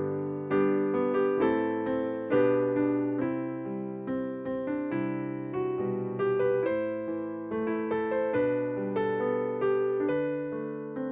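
Electric piano playing a slow hymn, chords struck about twice a second, each fading, over a sustained bass line.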